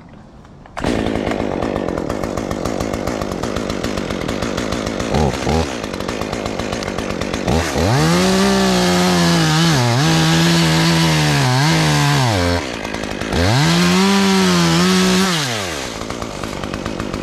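Two-stroke chainsaw comes on about a second in and idles, with a brief blip of throttle. Then it is run at full throttle twice, for about five seconds and then about two, its pitch sagging and recovering as the chain bites into an oak limb, before it drops back to idle.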